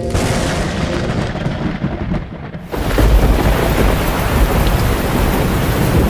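Thunderstorm sound effect: steady rain, then about three seconds in a loud rumble of thunder comes in over heavier rain.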